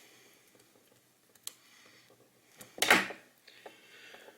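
Small clicks and one louder clack about three seconds in from the plastic parts of a vertical computer mouse being handled during reassembly.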